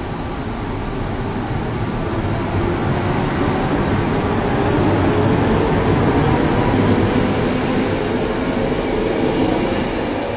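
Train running past, a steady noise that swells to its loudest around the middle and eases off near the end.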